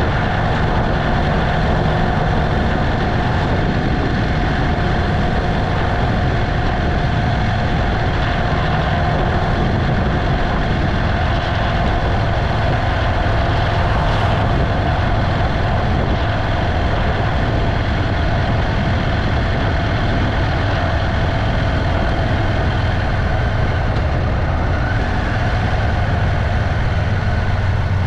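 Motorcycle riding at a steady speed: engine and road noise, steady, with a faint steady whine above the rumble.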